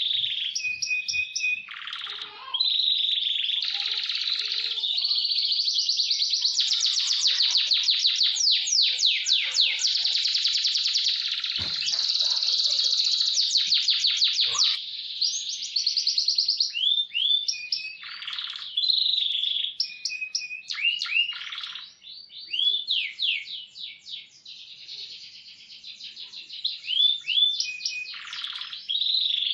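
Domestic canary singing a long, high-pitched song of fast rolling trills. About halfway through, the trills break into shorter phrases of quick gliding notes with brief pauses.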